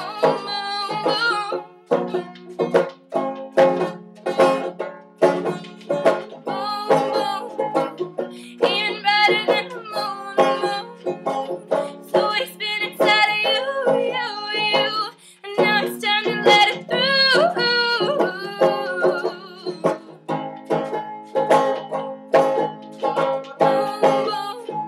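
Banjo playing a fast run of picked notes, with a voice singing long held notes over much of it.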